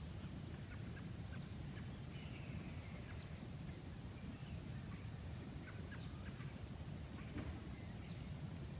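Birds calling faintly outdoors: scattered short chirps and a longer falling call, over a steady low rumble of background noise.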